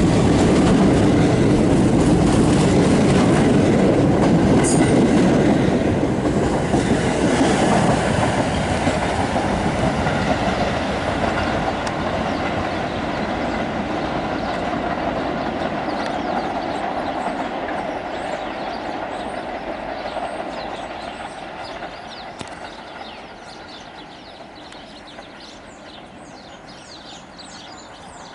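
Staten Island Railway R44 electric train pulling out and running away along the track, its wheels rumbling on the rails, loud at first and fading steadily as it recedes until only a faint trace is left near the end.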